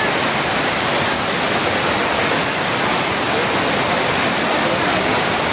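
Heavy rain pouring down with rushing water, a steady loud rushing noise that doesn't let up.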